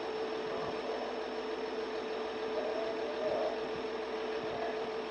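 KiHa 40 series diesel railcar's engine running with a steady drone and a constant hum as the train pulls out.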